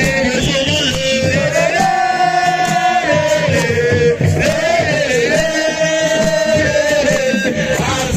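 Live Senegalese assiko music: a lead singer holding long, bending sung notes over a steady beat of hand drums and shaker.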